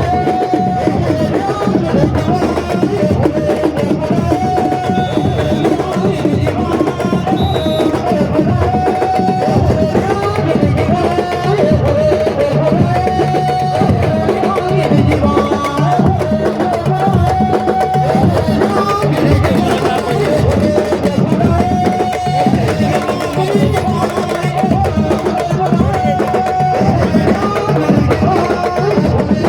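Drum ensemble playing a fast, dense rhythm, with a short held melodic line repeating over it, in the style of sabar drumming at Senegalese wrestling.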